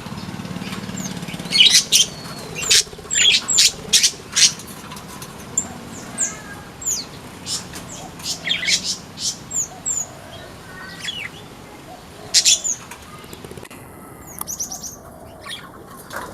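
Aviary flamboyan birds chirping: many short, sharp high calls and quick falling chirps, densest and loudest in the first few seconds and again near the end.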